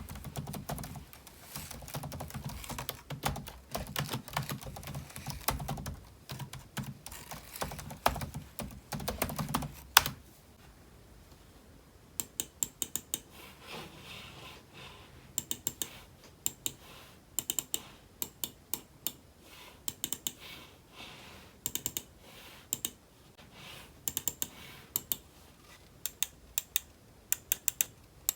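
Typing on a computer keyboard. For about ten seconds the keystrokes come fast and continuously with a deep, thocky bottom. After one sharp click the typing turns lighter and crisper, in short runs of clicks with pauses between them.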